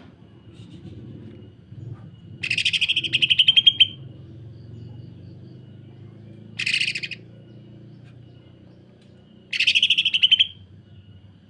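Green leafbird (cucak ijo) singing in three bursts of rapid, harsh rattling notes, the fast 'sewing machine' song, the first lasting about a second and a half and the second short.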